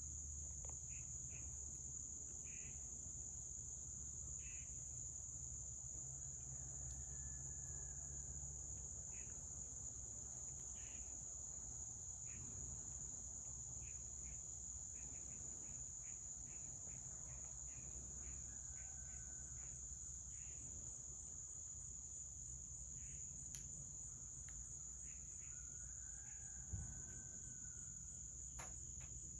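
Insects, crickets by their sound, trilling in one continuous high-pitched drone, over a low rumble. Scattered short chirps and a few faint whistled calls come and go, and a single sharp knock sounds near the end.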